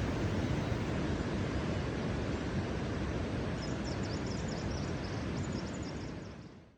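Steady rushing outdoor noise with a small bird chirping in quick repeated notes through the second half; everything fades out at the end.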